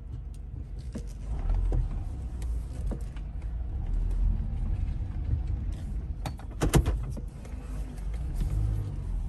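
Toyota Camry running, a steady low rumble heard inside the cabin, with a short cluster of sharp clicks about two-thirds of the way through.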